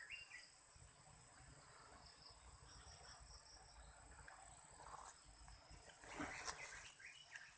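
Insects, likely crickets, chirring steadily in a continuous high-pitched drone, with brief rustling about six seconds in.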